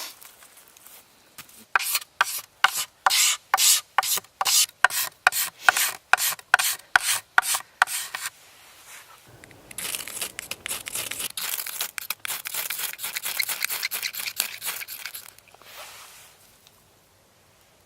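Knife blade scraping the outer surface of a bamboo stalk to raise shavings for fire tinder. First come separate strokes at about three a second, then about halfway through a faster, unbroken run of scraping.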